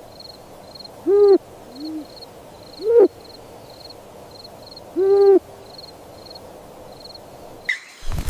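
Owl hooting: three clear hoots about one, three and five seconds in, with a fainter, lower hoot between the first two. A faint high chirp repeats about twice a second behind them.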